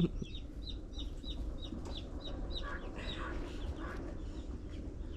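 Chicks peeping steadily, several short high falling peeps a second, with a few lower clucks from a hen in the middle. A brief thump right at the start.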